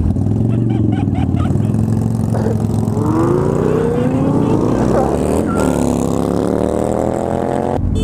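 Motorcycle engine pulling up through the revs as it accelerates, its pitch rising for a couple of seconds before falling again as the throttle eases off, over steady wind rush.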